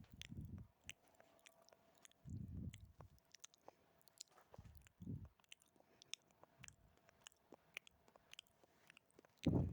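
Close-miked ASMR mouth sounds: many small wet clicks and smacks of lips and tongue, with a few louder, duller low sounds every two to three seconds, the loudest near the end.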